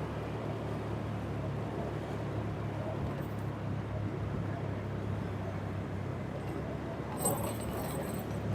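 Vehicle engine running steadily while driving, with a constant low hum and road noise. There is a brief clatter about seven seconds in.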